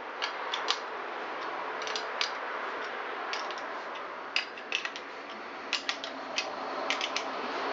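Sharp metallic clicks and light taps in small irregular clusters over a steady hiss, as a tight cylinder barrel is worked up off the piston of a Honda SL125 engine.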